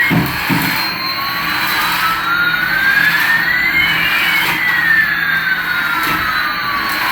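A remote-control toy's motor whining over a steady hiss, its pitch rising for about three seconds and then falling again, with a dull thump at the start.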